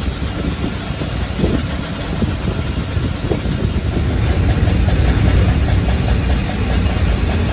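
A cylinder boring or honing machine running steadily on an engine block: a low mechanical rumble with scattered light clicks, getting a little louder about four seconds in.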